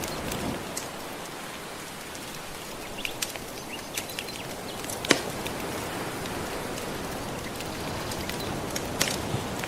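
Soft ocean waves washing steadily, with a wood fire crackling over them in scattered sharp pops, the loudest about five seconds in.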